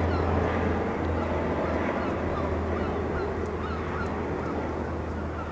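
Small marine diesel engine running steadily with a low hum, while birds call repeatedly in short, falling notes a few times a second.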